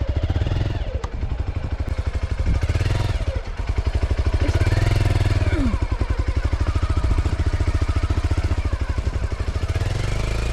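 Motorcycle engine running steadily with rapid even firing pulses as the bike climbs a rough stone-paved road.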